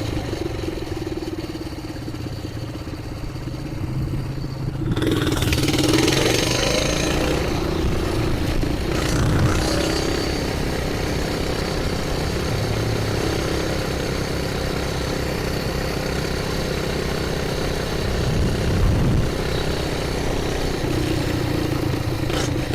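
Coleman BT200X mini bike's straight-piped single-cylinder engine running while riding. About five seconds in it picks up, rising in pitch as it is throttled up, then holds a steady drone at speed.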